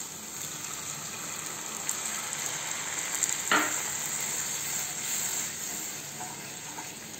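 Onion-tomato masala sizzling in hot mustard oil in a kadhai. About halfway through, pea-cooking water is poured in with a brief sharp burst, and a spatula then stirs it as it bubbles.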